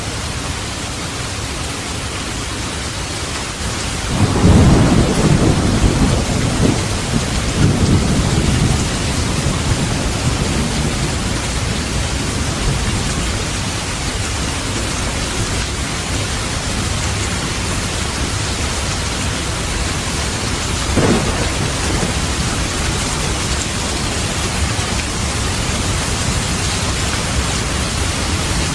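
Steady heavy rain hissing, with a loud peal of thunder that breaks about four seconds in and rumbles on for several seconds with a second swell, and a shorter, sharper crack of thunder later on.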